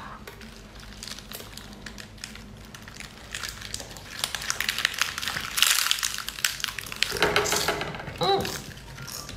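Close-up eating sounds: a mouthful of food being bitten and chewed, a dense run of crackling clicks that grows heavier through the middle and comes again in a shorter burst near the end. A brief hummed vocal sound from the eater comes just after that.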